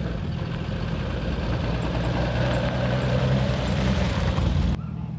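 Classic rally car's engine running as the car drives slowly past. Near the end the sound drops abruptly to a quieter, steady low engine hum.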